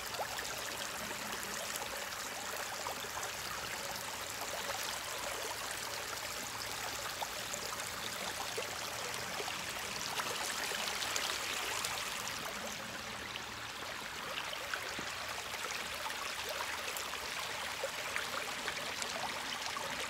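Stream water running steadily over rocks, a continuous rushing with small splashy ticks, briefly a little louder about ten seconds in.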